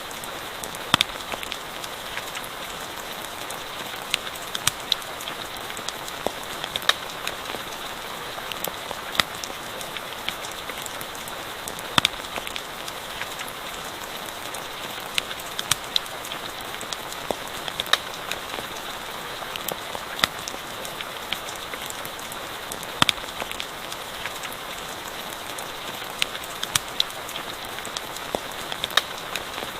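Steady rain falling as an even hiss, with the irregular sharp pops and snaps of a crackling campfire.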